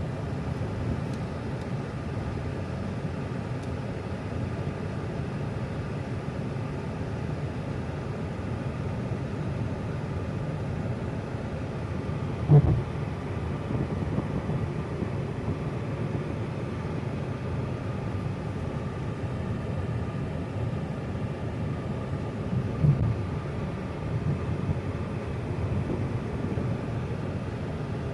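Steady low rumble of a moving car, with a sharp thump about halfway through and a few smaller knocks near the end, like bumps in the road.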